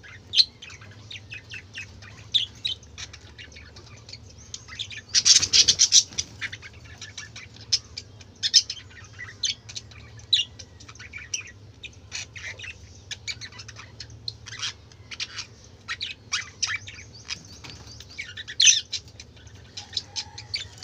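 A flock of budgerigars chattering, with a constant run of short, sharp chirps and squawks. There is a dense burst of calling about five seconds in.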